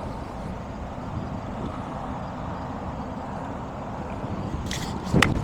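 Steady low wind rumble on the microphone. Near the end comes a brief swish and then one sharp crack: a golf club striking the ball.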